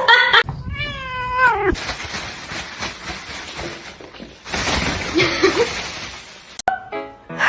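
Domestic cat giving one long, drawn-out meow that bends in pitch, starting about half a second in and lasting over a second.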